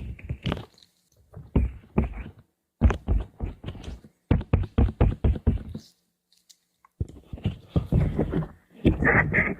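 Close-miked ASMR trigger sounds: quick runs of taps and clicks, several a second, in short bursts with a pause of about a second after the middle and a denser run near the end.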